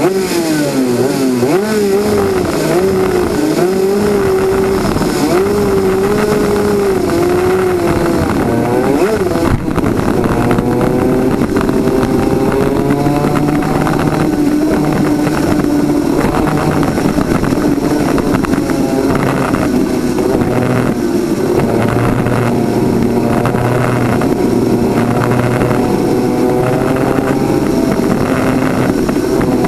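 Onboard sound of a twin-cylinder 250cc two-stroke superkart engine at racing speed. For about the first nine seconds the pitch rises and falls again and again with throttle and braking. After a short sharp noise it holds high, climbing slowly through long pulls.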